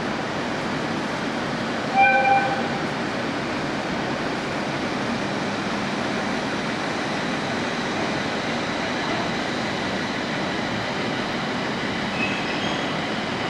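JR East 701 series electric train sounding its horn in one short blast about two seconds in, while its motors and wheels keep up a steady running noise as it moves slowly through the station.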